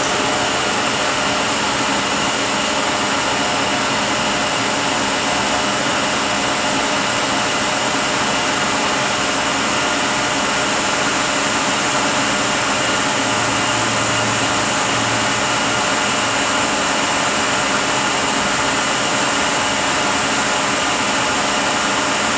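Rebuilt Eaton Fuller RTLO-18913A 13-speed truck transmission running on a test dyno: a loud, steady mechanical whir with several steady whining tones, unchanging throughout.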